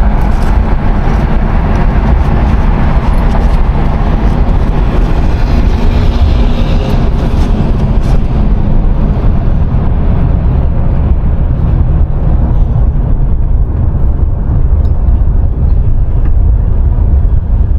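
Road and engine noise heard from inside a moving car: a steady low rumble, with the higher hiss dying down about halfway through.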